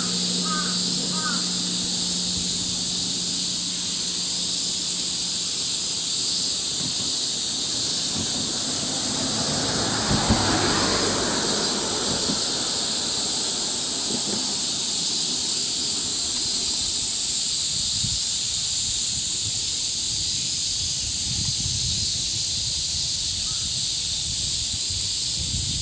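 Steady high-pitched drone of a summer cicada chorus, with a few short bird calls in the first second or so.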